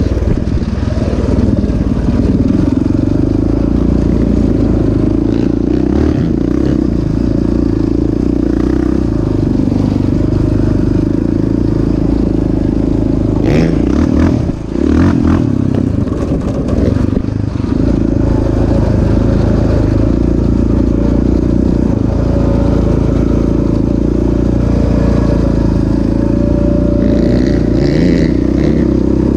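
Off-road vehicle engine running steadily at speed, with a short dip in level about halfway through.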